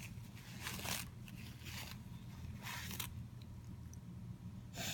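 A cat tearing at a paper napkin: short bursts of paper ripping and rustling, about one a second.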